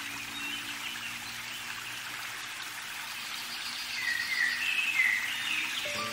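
Small songbird chirping outdoors, a run of short whistled phrases about four to five seconds in, over a steady outdoor hiss. Background music comes in at the very end.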